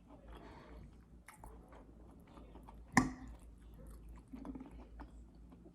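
Close-up eating sounds: soft chewing of a mouthful of food with small wet clicks, and one sharper click about three seconds in.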